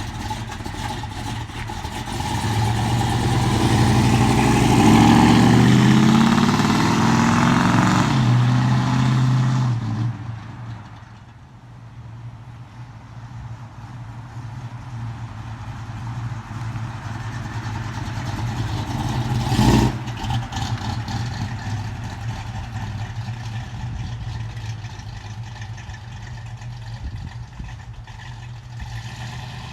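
1984 Chevrolet Caprice engine revved up and down for several seconds, then settling back to a steady idle. A single sharp knock about two-thirds of the way through.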